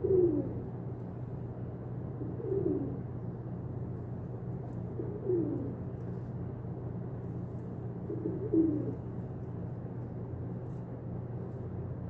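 Pigeon cooing: four short, falling coos spaced about two to three seconds apart, over a steady low hum.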